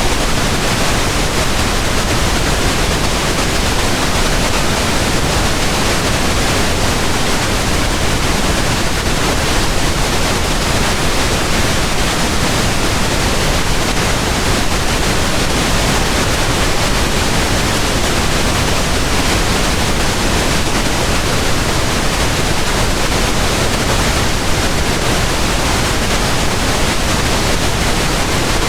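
Steady pink noise: an even, unbroken hiss spread across the whole range, with no change or events.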